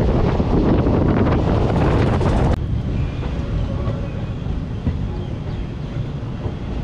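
Passenger train running, heard from an open coach window with wind buffeting the microphone. About two and a half seconds in it cuts abruptly to a quieter, steady rumble of the moving coaches.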